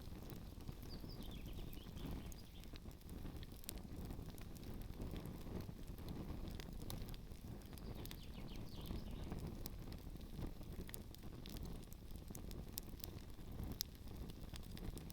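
Campfire burning with frequent scattered crackles and pops over a low steady rumble.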